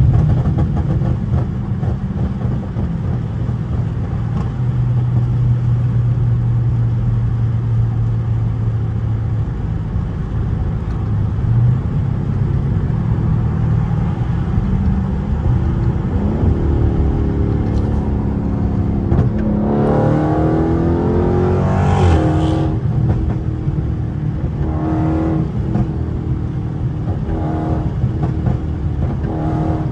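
Dodge Charger 392's 6.4-litre HEMI V8 cruising with a steady low drone, then accelerating hard past the midpoint, its pitch rising twice as it pulls through the gears. A sharp crack comes at the top of the pull, and then it settles back to a steady cruise. The engine carries a pop tune.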